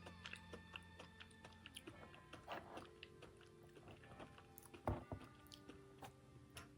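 Close-miked chewing and biting of sweets: many small, quiet mouth clicks and smacks, with one louder knock about five seconds in. Faint background music runs underneath.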